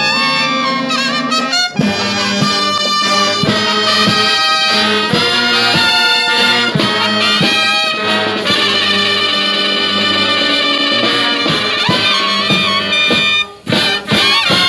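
Marching band playing: massed brass, trumpets to the fore, over drum strikes. Near the end the music breaks off briefly, then comes back for a final loud hit.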